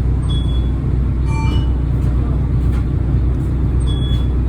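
Volvo B12BLE bus's diesel engine running steadily, heard from inside the cabin. Short high beeps from the dashboard sound about half a second in and again near the end, with a brief chime-like cluster of tones about a second and a half in.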